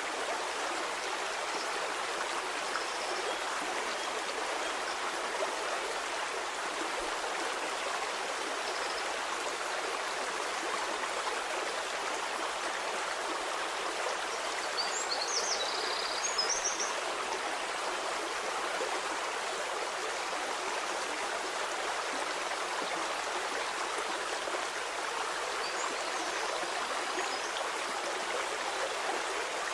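A flowing stream: a steady rush and babble of water, with a few brief high chirps about halfway through.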